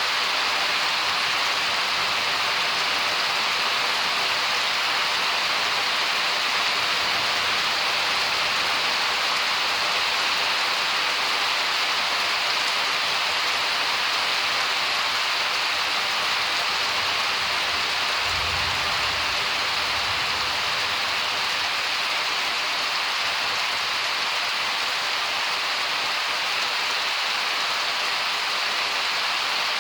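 Steady heavy rain falling, an even hiss of drops with no letup. About two-thirds of the way in a brief low rumble rises under it.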